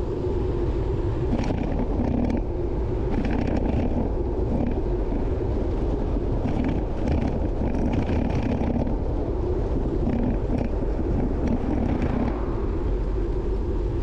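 Wind rumbling on the microphone of a moving bicycle, mixed with steady road and traffic noise.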